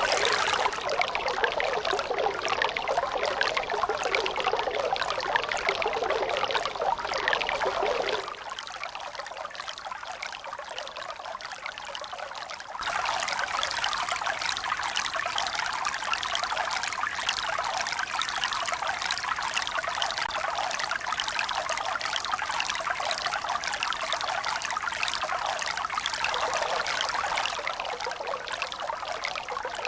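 Continuous running water, trickling and pouring, with no swell-and-break rhythm of waves. Its sound changes suddenly about 8 seconds in, growing quieter and thinner, comes back fuller about 13 seconds in, and shifts slightly again near the end.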